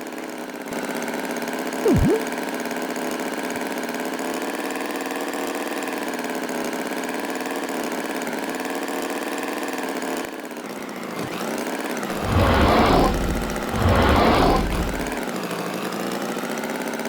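An engine running steadily with an even drone. There is a short sharp sound about two seconds in and two louder bursts about twelve and fourteen seconds in.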